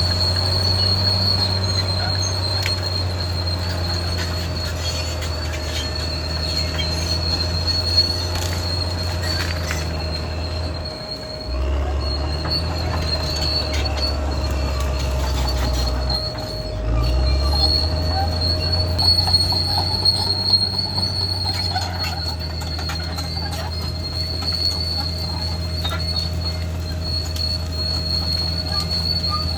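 Caterpillar D6R XL crawler bulldozer working: its diesel engine runs steadily under load while the steel tracks give a continuous high squeal. The engine note drops briefly twice, about eleven and sixteen seconds in.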